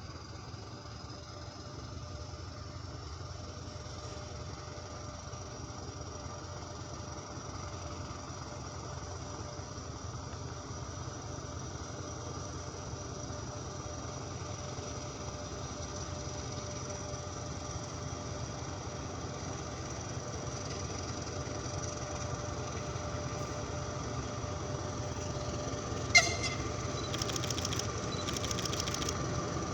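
TGM6A diesel-hydraulic shunting locomotive running with a freight train, a steady low engine drone with a thin whine over it, slowly growing louder as it draws closer. Near the end, a sharp click and then a few seconds of rapid ticking.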